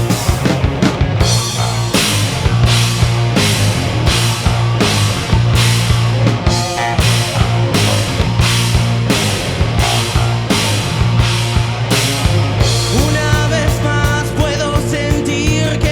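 Rock band playing live: a driving beat with a cymbal stroke about two and a half times a second over heavy bass and guitar. Near the end the beat breaks up into faster hits while a lead line of wavering, sliding high notes comes in.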